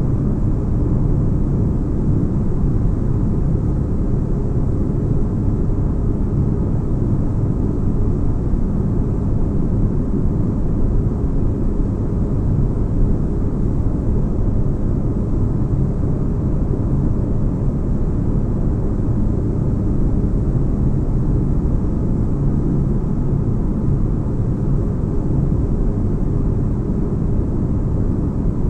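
Spaceship-interior ambience: a steady deep bass rumble with faint hum tones above it, unchanging throughout.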